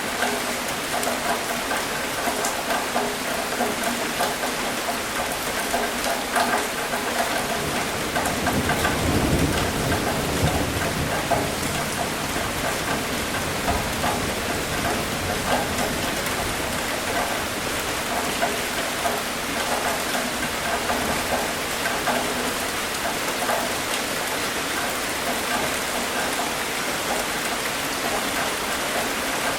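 Steady rain falling and pattering on surfaces, with a low rumble of thunder about eight seconds in that swells and fades over a few seconds.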